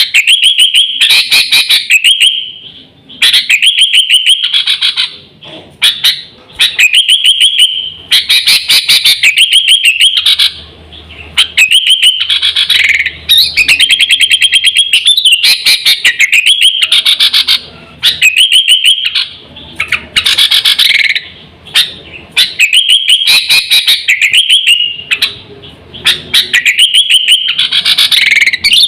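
Sooty-headed bulbul (kutilang) singing vigorously: loud phrases of rapid chirps, each lasting a second or two with short pauses between, repeated again and again as a lure call.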